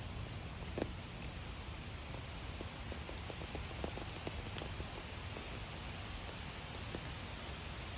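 Steady rain falling on a forest trail, a constant hiss dotted with many small scattered drop ticks.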